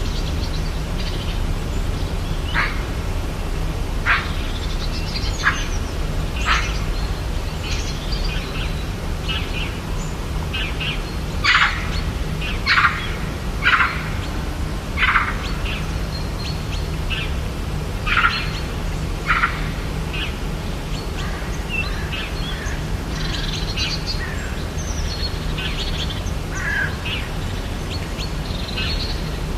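Several birds calling in short, scattered chirps and whistles, densest and loudest in the middle, over a steady low background rumble.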